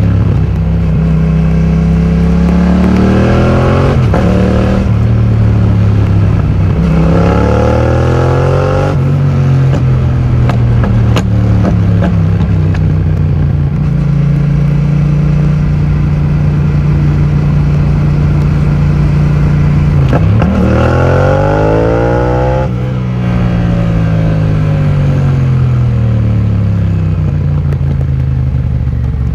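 2020 Yamaha MT-07's 689 cc parallel-twin engine through an Akrapovic full titanium exhaust, heard while riding. It revs up twice with gear changes near the start and holds a steady cruise through the middle. About two-thirds through, the revs drop and then climb again.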